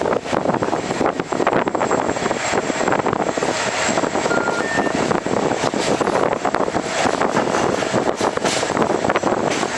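Express train running at speed: steady noise of wheels on rails, with fine rapid clatter and rushing air.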